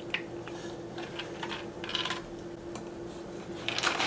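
Scattered light clicks and rattles of small snack puffs and a plastic dispenser being handled, over a faint steady hum, with a louder rustle near the end.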